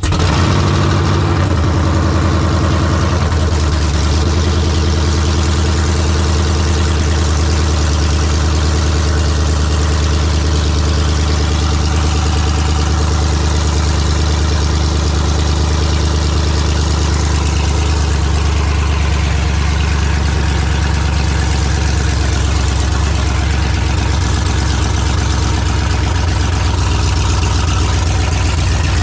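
Freshly rebuilt GM 5.3 L LS V8 of a GMC Sierra idling steadily on its first start after the rebuild. The engine has a performance camshaft and long-tube headers.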